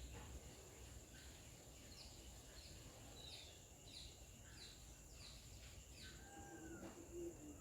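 Faint outdoor wildlife calls: a bird giving a run of short, high, falling chirps about twice a second over a steady high insect drone, with a couple of lower whistled notes near the end.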